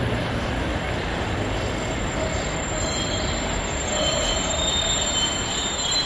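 A metre-gauge electric railcar of the Train Jaune, fed from a third rail, rolls past with a steady rumble. About halfway through, a high metallic squeal rises over the rumble and holds nearly to the end.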